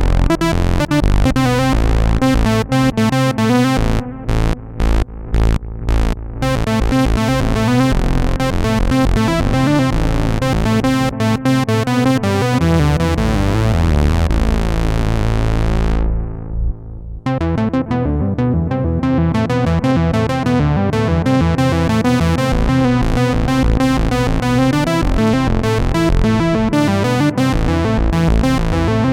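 Arturia MatrixBrute analog synthesizer playing its 'Fat Brass' patch: thick sustained brass-like chords over a low note. About two-thirds of the way through, a held low note takes over and the brightness fades away before the chords come back.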